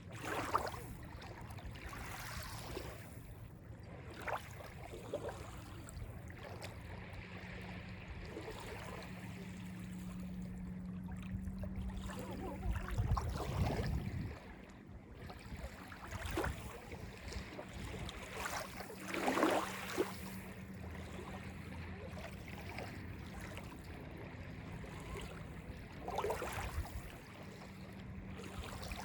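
Calm Lake Ontario waves lapping and splashing on the beach in irregular breaks, the biggest splash about two-thirds of the way through, over a steady low hum.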